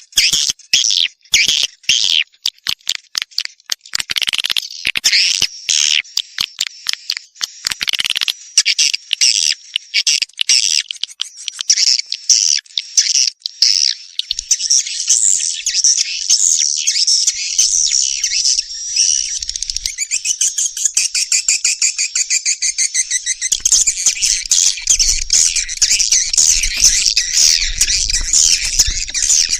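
Recorded swiftlet calls: rapid, dense twittering and clicking chirps. They start as separate bursts and thicken into an almost unbroken chatter from about halfway. This is a 'birahi' (courtship) lure call, played to draw swiftlets into a nesting house.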